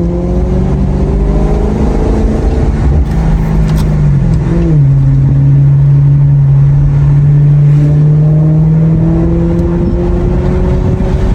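Maserati GranTurismo engine running steadily while driving, its pitch dipping briefly about four to five seconds in and then holding level again.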